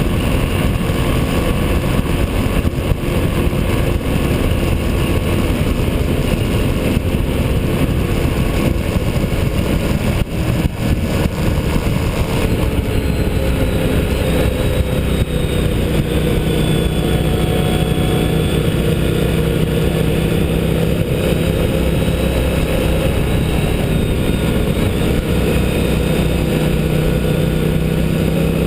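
Motorcycle engine running hard on a race track, the revs rising and falling with throttle and gear changes, then holding a steadier note from about halfway, with a constant rush of noise underneath.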